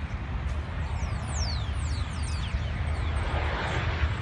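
Jet airliner noise near an airport runway: a steady low rumble with a rushing sound that swells over the last second. Many quick high chirps that fall in pitch are scattered over it.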